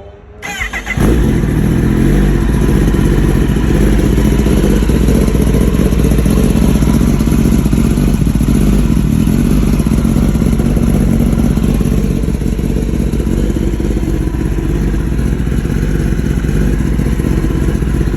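2023 Kawasaki ZX-10R's inline-four engine cranks over and starts about half a second in, then runs steadily. It is run right after an oil change to fill the new oil filter so the oil level settles.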